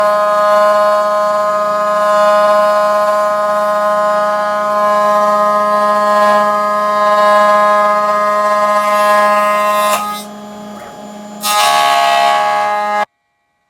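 Homemade CNC router running while it machines a spiral on its rotary fourth axis: a steady, high whine of several tones. It drops away about ten seconds in, returns at a different pitch a second and a half later, and cuts off suddenly near the end.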